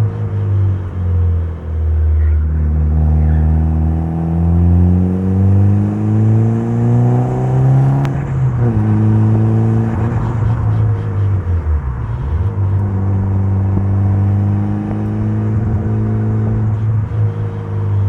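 Mitsubishi Lancer Evolution's turbocharged 2.0-litre 4G63 inline-four pulling hard through a gear. The revs climb steadily for several seconds, then drop sharply at an upshift about eight seconds in, hold fairly steady, dip briefly near twelve seconds and settle again.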